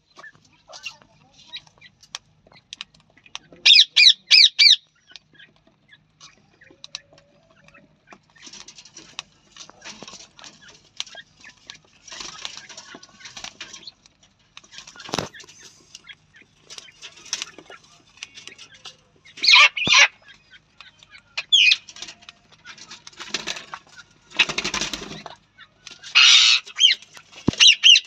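A teetar (francolin) and parrots calling: loud, high calls in quick runs of a few notes, once about four seconds in and several times in the second half. Between the calls comes softer rustling and wing-flapping noise.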